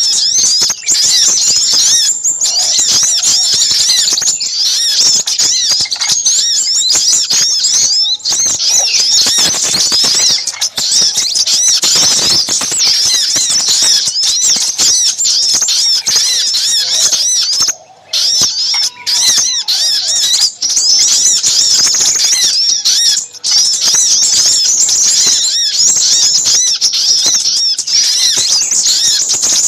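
Bird-lure recording of little spiderhunters (sogok ontong) calling excitedly, mixed with crimson sunbird (sepah raja) calls: a dense, unbroken stream of overlapping high-pitched chirps and squeaks. There is a brief break about eighteen seconds in.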